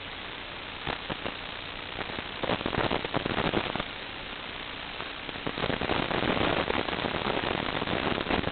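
Steady hiss of radio static with a dense crackle that surges louder about two and a half seconds in and again from about five and a half seconds on.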